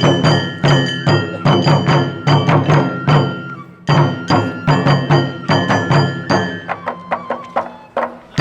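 Japanese folk-dance percussion: quick, steady strokes, each pairing a deep drum beat with a ringing metal pitch. The rhythm pauses briefly about four seconds in, then carries on.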